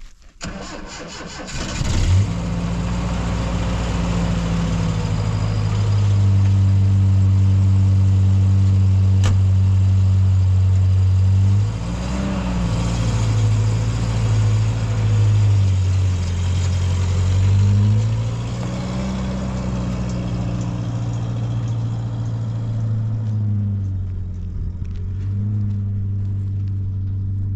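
A car engine being cranked and catching about two seconds in, then running with the revs raised, dropping, rising and falling a few times, and settling near the end.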